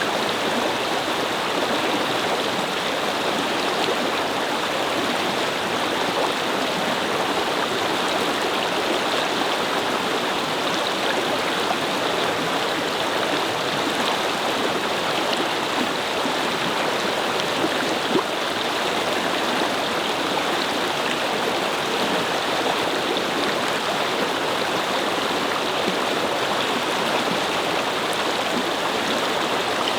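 A shallow brook babbling steadily over stones, an even rush of flowing water.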